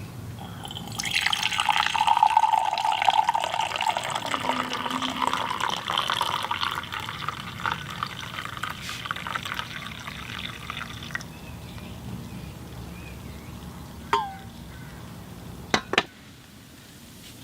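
Water being poured in a steady stream for about ten seconds, then cut off suddenly. A few sharp clicks follow near the end.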